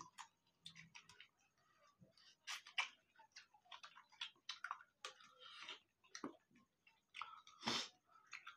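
Quiet, irregular chewing and lip-smacking of people eating rice and chicken curry by hand, with sharper smacks about three seconds in and again near the end.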